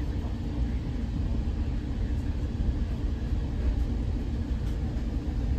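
Steady low rumble inside an ACE commuter train passenger car.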